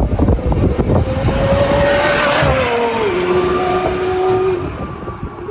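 A high-performance car passing at speed: its engine note climbs slightly, drops sharply in pitch as it goes by, then fades away.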